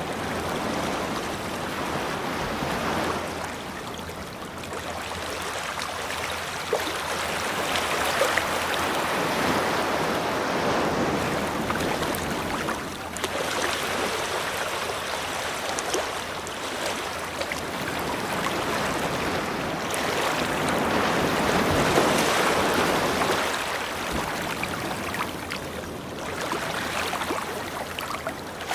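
Ocean waves breaking and washing up a beach, a steady rushing that swells and fades in slow surges every few seconds.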